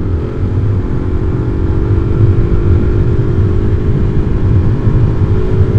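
Single-cylinder supermoto motorcycle engine running at a steady speed while riding, heard from inside the helmet with a low wind rumble under it.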